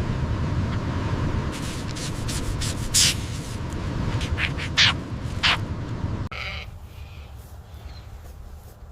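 Steady wind-like rumble with a few short, high, sharp sounds about three, five and five and a half seconds in. Then a sudden cut to a quieter scene with faint bleating.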